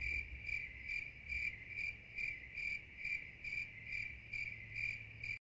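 High-pitched insect chirping, like a cricket's, in an even rhythm of a little over two chirps a second over a continuous trill, cutting off suddenly near the end.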